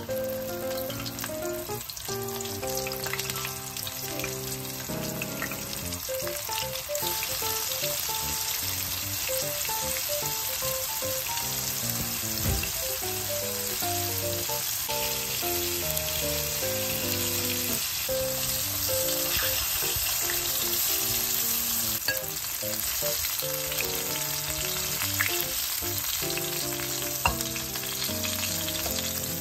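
Flour-coated eel pieces sizzling steadily as they fry in hot oil in a pan, with a single sharp click near the end. Light background music with stepping notes plays underneath.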